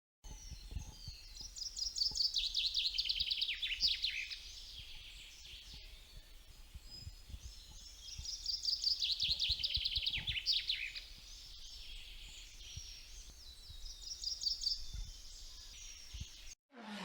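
A songbird singing three phrases. Each phrase is a quick run of notes falling in pitch: the first two last about three seconds each, and a shorter one comes near the end. Faint low background noise runs underneath.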